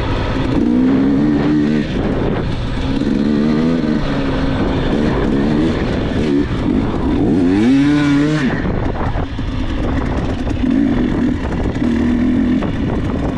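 Dirt bike engine running under a rider, revving up and dropping back repeatedly, with one sharp rise and fall about eight seconds in.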